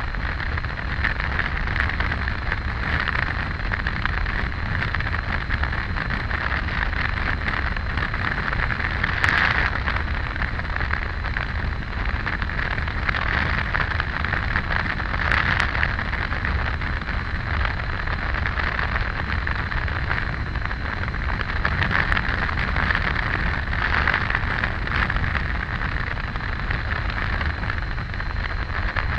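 Steady wind and road noise of a Triumph Tiger 800 motorcycle riding at speed on a highway, with a low engine rumble under the rush of air. It swells briefly louder twice, about nine and fifteen seconds in.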